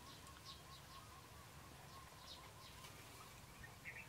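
Near silence with faint birds chirping: short high chirps every second or so over a faint, quickly repeating call.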